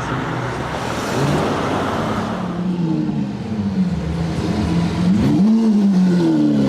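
Sports car engine and exhaust revving. A rough, loud exhaust rush comes first, then the engine note falls away, rises again in a quick rev about five and a half seconds in, and settles to a steady drone.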